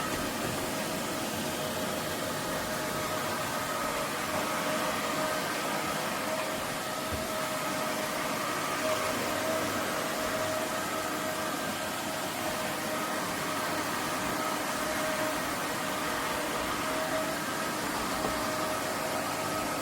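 Roborock F25 wet-dry vacuum mop running steadily, likely still in auto mode: an even rush of suction with a faint motor whine held on a steady pitch.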